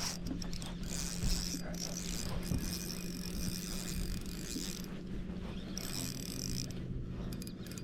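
Fishing reel being cranked, its gears running fairly steadily as a hooked fish is reeled in.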